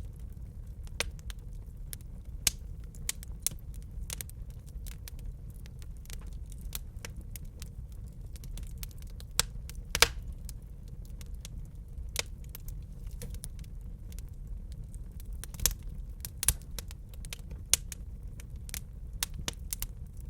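Wood fire crackling in a fireplace: irregular snaps and pops over a steady low rumble from the flames, with a few sharper pops near the middle and towards the end.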